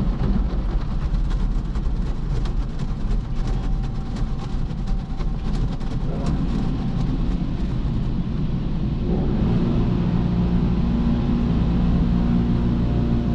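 Automatic car wash machinery running: a dense spatter of sharp ticks over a steady rumble, then about nine seconds in the ticking fades and a steady low hum takes over.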